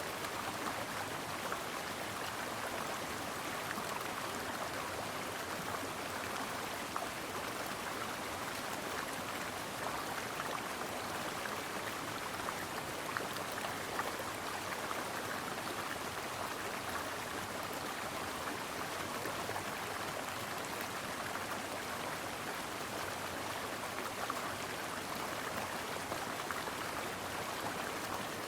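Mountain stream running over rocks: a steady rush and babble of water with small splashes.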